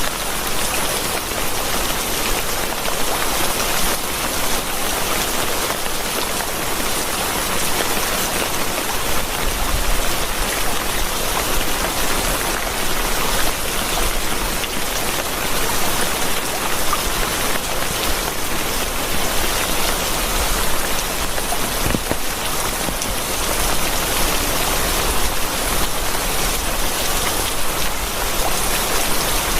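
Steady rain falling, an even, unbroken hiss of many drops at a constant level.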